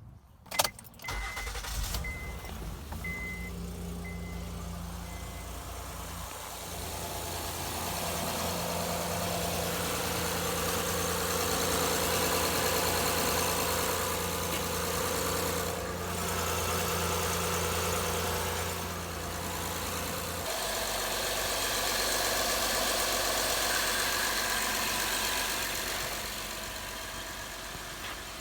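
2011 Honda Accord's 3.5-litre V6, fitted with a new timing belt tensioner, is cranked and starts, then runs steadily. Its level swells and eases a couple of times. A dashboard chime beeps evenly about five times in the first few seconds.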